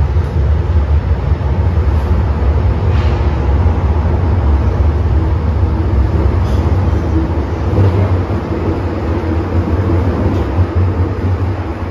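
MTR M-train running on the Tsuen Wan Line, heard from on board: a steady low rumble of motors and wheels on rail, with a few faint clicks.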